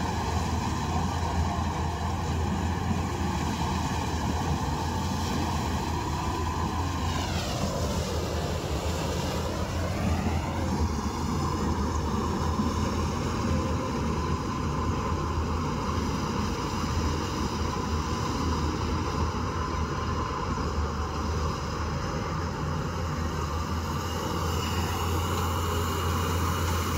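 Combine harvester engine running steadily with a low drone. Around eight to ten seconds in, its tone sweeps down and back up in a whooshing pass.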